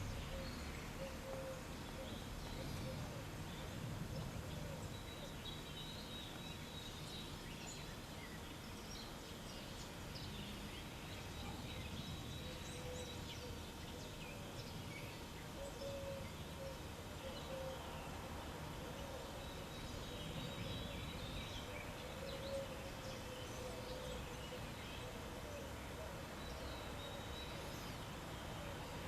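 Outdoor background noise: a steady low hum with faint bird chirps here and there.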